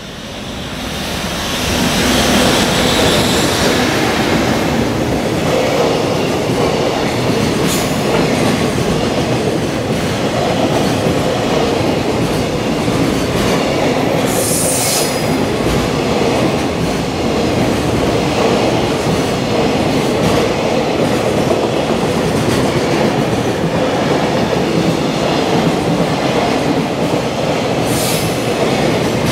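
A freight train's container wagons roll past close by at speed, a steady loud rumble and rattle of wheels over the rail joints. There are a few brief high-pitched wheel squeals, the clearest about halfway through.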